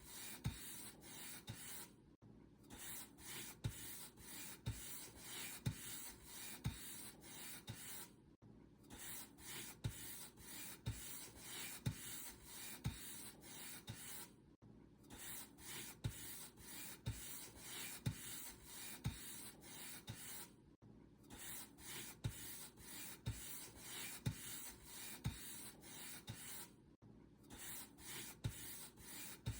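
Paint brush bristles brushing across a surface in a steady rhythm of strokes, with a brief pause about every six seconds.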